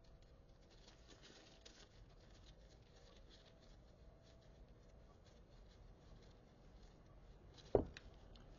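Quiet handling of small metal parts: faint scattered clicks and rustles as clutch spring studs and nuts are fitted by hand into a clutch centre, with one sharp knock near the end.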